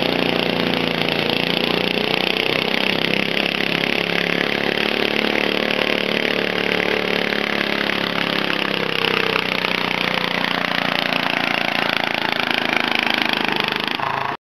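Pulling tractor's engine running hard at steady high revs, its pitch wavering slightly as it works under load; the sound stops abruptly near the end.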